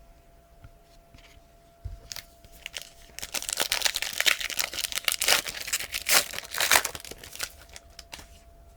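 Wrapper of a Panini Past & Present basketball card pack being torn open and crinkled. Scattered crackles begin about two seconds in and become a dense run of crinkling and tearing for about five seconds.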